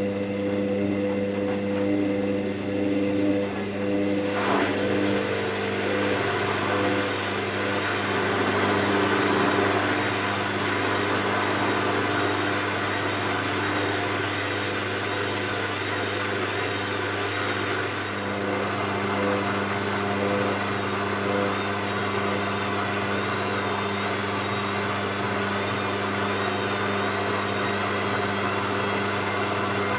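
Hoover VisionTech washing machine running mid-programme: a steady motor hum and whir, which changes in tone about four seconds in and again about halfway through, with a wavering high whine later on.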